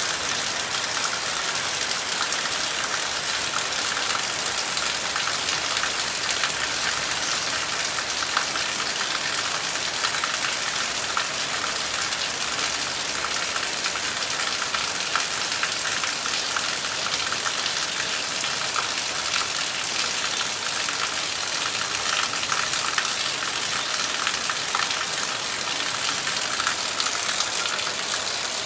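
Heavy rain falling steadily: an even hiss with a dense patter of drops, unchanging throughout.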